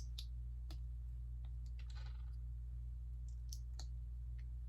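Plastic Lego pieces clicking and tapping together as they are handled and fitted, about eight scattered clicks at irregular intervals, over a steady low hum.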